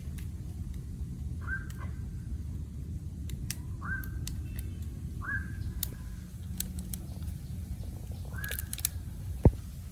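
A bird calling over and over, a short note that rises and then holds, about every one and a half seconds, over a steady low rumble. Scattered clicks, and one sharp knock near the end.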